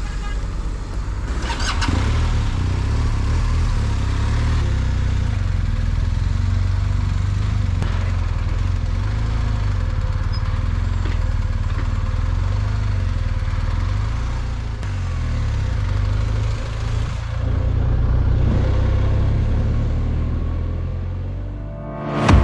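Motorcycle on the move: a steady low rumble of the engine mixed with wind on the rider's microphone, dipping near the end, where a sudden loud burst cuts in.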